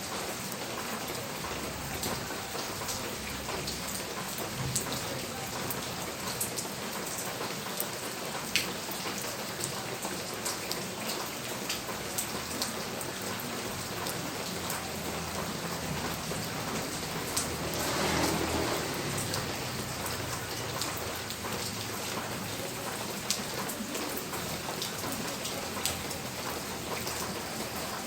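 Steady rain falling, with scattered sharp drip ticks. A rumble of thunder swells and fades about two-thirds of the way through.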